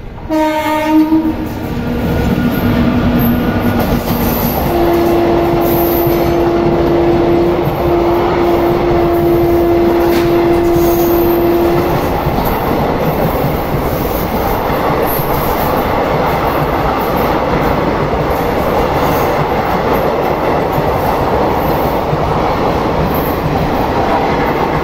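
Indian Railways electric locomotive sounding its horn, a few short blasts at first and then one long steady blast of about seven seconds, as a passenger train of sleeper coaches passes at close range with steady wheel and rail clatter.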